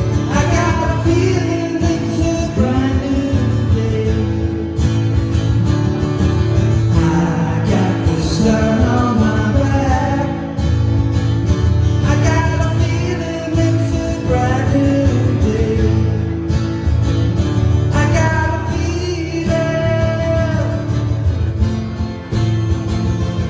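Live band playing a country-tinged song, with guitars over a steady bass line; the melody carries on with no clear lyrics.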